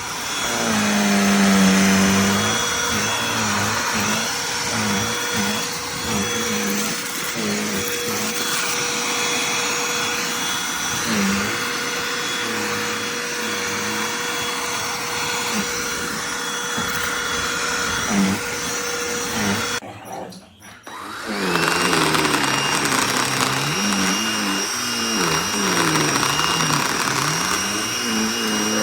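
Cordless handheld vacuum running, its motor tone wavering as it works. About 20 s in it cuts out for about a second and then runs again with a higher, different whine.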